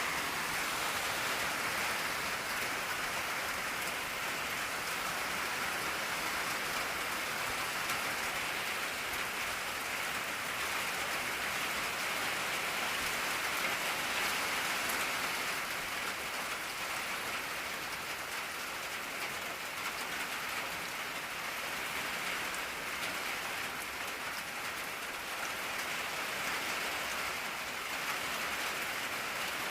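Steady rain drumming on an old tin roof, a dense, even patter of drops on the metal.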